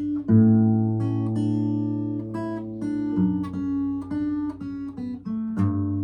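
Acoustic guitar music: a chord strummed about a third of a second in, picked notes ringing over it, and new chords struck about three seconds in and again near the end.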